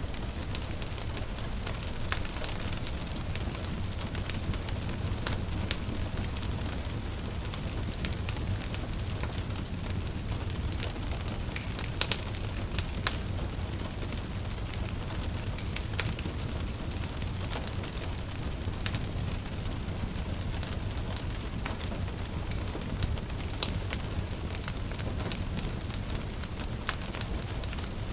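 Wood fire crackling and popping in a fireplace, many sharp snaps over a steady low rumble, with a few louder pops. A soft hiss of gentle rain runs beneath it.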